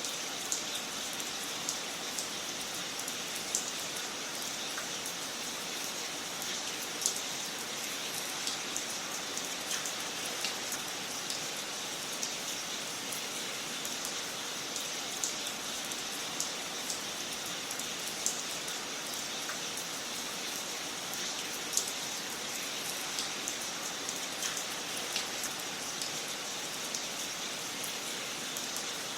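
Wood fire crackling in a fireplace: a steady hiss with irregular sharp pops and snaps, a few louder pops standing out, around seven seconds in and again after about twenty-two seconds.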